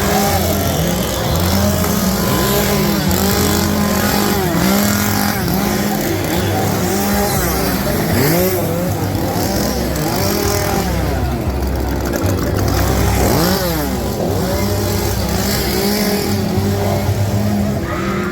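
Loud piped horror-attraction soundscape: a steady low drone with a pulsing low beat, overlaid with many repeated rising-and-falling warbling tones.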